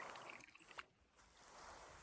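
Faint swish and trickle of a canoe paddle moving through water, with one light click a little under a second in.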